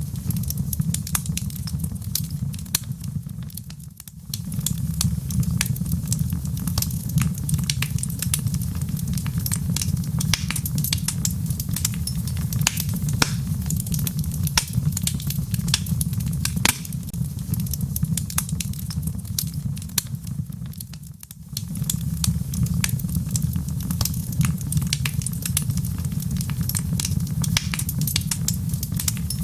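Log fire in a fireplace crackling and popping, with many sharp irregular snaps over a steady low rumble of flames. The sound briefly falls away about 4 seconds in and again about 21 seconds in.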